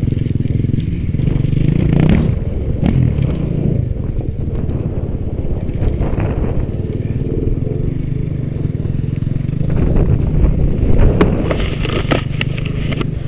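Dirt bike engine running and revving on a track. A few sharp clattering knocks come near the end.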